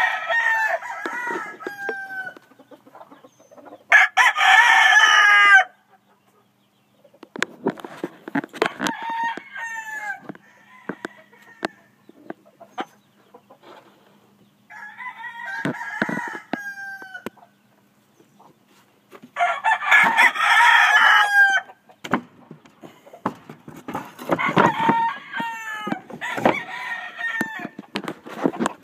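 Gamecocks crowing one after another, several times over, some loud and close and others fainter; the loudest crows come about four seconds in and again about twenty seconds in.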